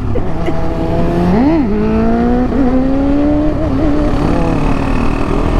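KTM 690 Duke R single-cylinder engine under hard acceleration. Its revs climb to a peak about one and a half seconds in and drop sharply at a gear change, then pull steadily higher through the next gear, with wind noise underneath.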